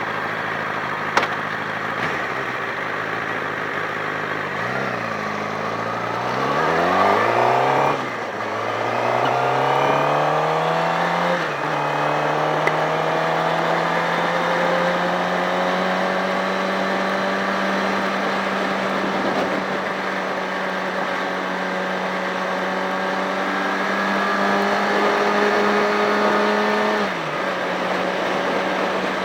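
Sportbike engine revving up in pitch and dropping suddenly at two upshifts, then running at a steady pitch that creeps up slightly before easing off near the end.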